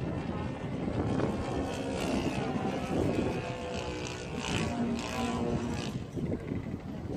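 Engine and propeller of a Seagull Edge 540 radio-controlled model aerobatic plane running in flight, a steady pitched drone mixed with wind buffeting on the microphone.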